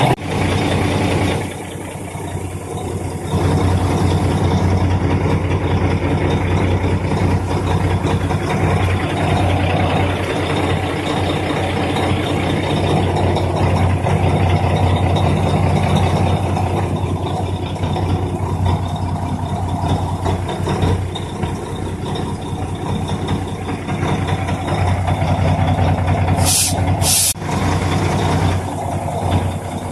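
A 5 kW Chinese diesel air heater running, with a steady machine hum from its combustion blower. It dips briefly early on, and two short hisses come near the end.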